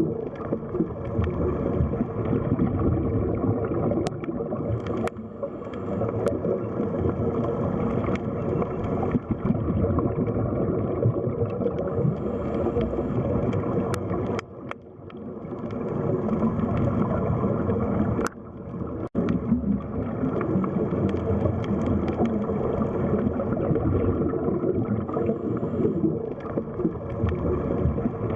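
Underwater sea ambience: a dense, muffled churn of moving water with gurgling, a few sharp clicks, and the level dropping away briefly twice around the middle.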